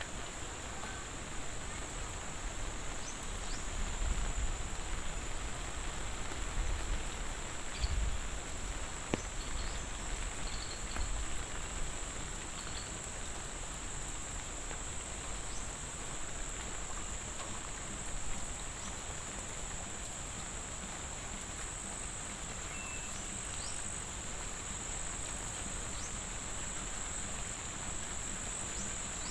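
Crickets trilling steadily on one high pitch, over a light, even hiss of monsoon rain.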